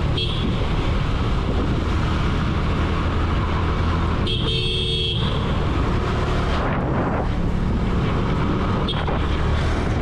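Motorcycle engine running steadily with road noise, heard from the rider's camera. A vehicle horn blares for about a second, about four seconds in.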